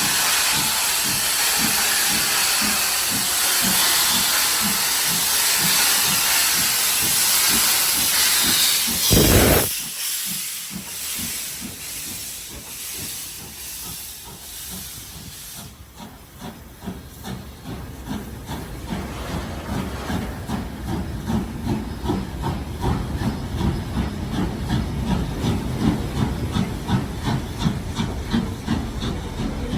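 Steam locomotive 3526 hissing loudly with low rhythmic chuffs, then a brief very loud blast of steam about nine seconds in, after which the hiss drops away. Regular exhaust beats then build in loudness as it works away.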